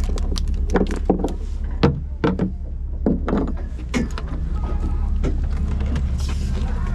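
A boat's engine droning steadily, with a scatter of sharp knocks and clatter over it.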